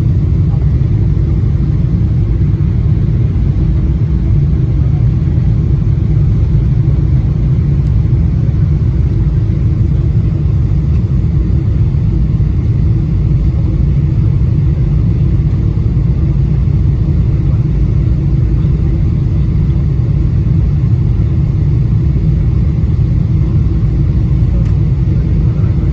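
Cabin noise of a Boeing 777-200LR in descent: a loud, steady, deep rumble of airflow and jet engines, with a fainter steady hum above it.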